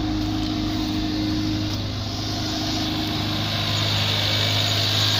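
Hyundai Veloster's 1.6 turbo G4FJ four-cylinder engine idling with a steady hum, a hiss growing louder near the end.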